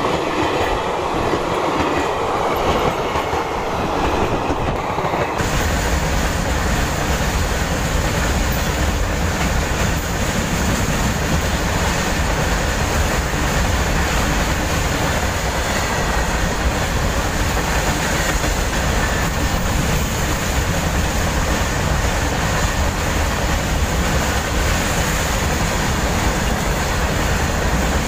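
A train passing close by, its steel wheels rolling over the rails in a loud, steady run of rail noise. About five seconds in the sound turns deeper and heavier.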